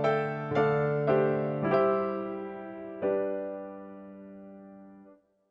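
Electric piano chords, each struck and left to decay: four chords in the first two seconds, a last one about three seconds in that fades out about five seconds in.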